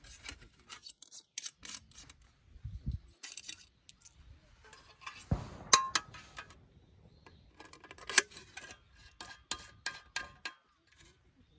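Camp gear being handled by hand: a run of light clicks and metal clinks, with a heavier thud about five seconds in and a short ring after it.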